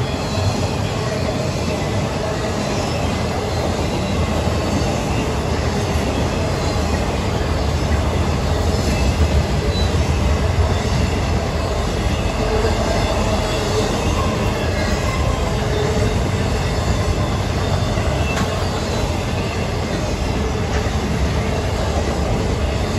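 Loaded intermodal freight cars rolling past on steel wheels: a steady, loud rumble and rattle on the rails, with a few faint brief wheel squeals here and there.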